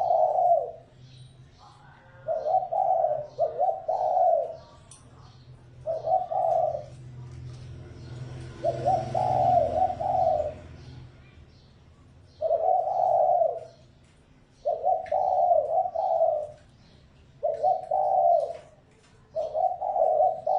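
Spotted dove cooing: a repeated phrase of a few low coos, each phrase about a second long, coming every two seconds or so. This is a decoy (mồi) call meant to provoke and lure wild doves. Faint high chirps of small birds sound behind it.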